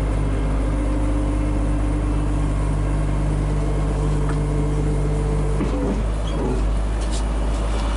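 A vehicle engine running steadily under load at an even speed, with a low rumble. Its pitch wavers and changes about six seconds in.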